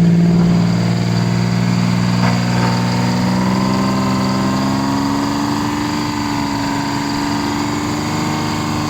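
Big diesel engine of an old concrete truck running just after a cold start on ether, its note steady with the engine speed slowly creeping up.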